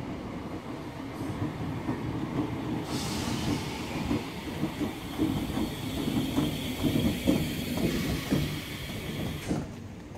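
Electric multiple unit train running along the platform, its wheels clicking over the rail joints under a steady rumble. A hiss rises about three seconds in, and the sound drops away sharply near the end.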